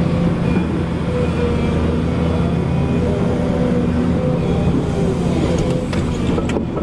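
Volvo EC220E excavator's diesel engine running steadily, with a whine from the hydraulics rising and falling in pitch as the machine works. A scatter of clicks and rattles comes near the end.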